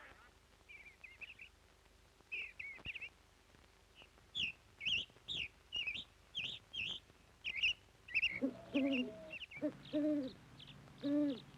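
Wild birds calling: a run of quick, high chirping notes, joined in the last few seconds by four lower hooting calls.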